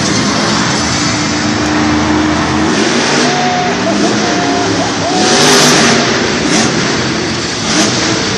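Monster truck engines revving, the pitch rising and falling several times, with a loud surge of noise about five seconds in.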